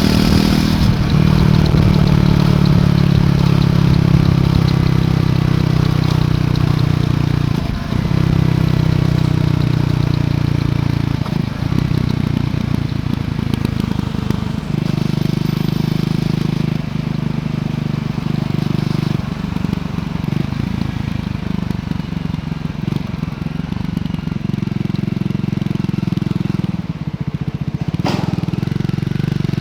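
Triumph Scrambler 400X single-cylinder engine on its stock exhaust, running under way on a ride. The engine note holds steady, then breaks off briefly and settles at a new pitch several times. A sharp click comes near the end.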